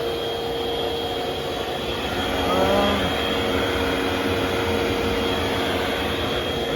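Eureka vacuum cleaner running steadily, its motor giving a constant whine over a rushing airflow. A short wavering pitched sound comes about two and a half seconds in.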